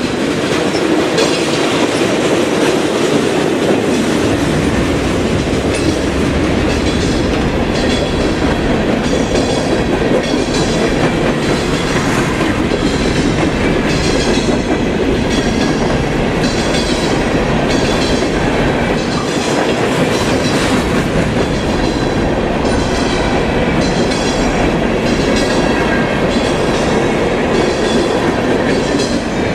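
A train rolling past at a steady pace, its wheels clacking in a regular rhythm over the rail joints.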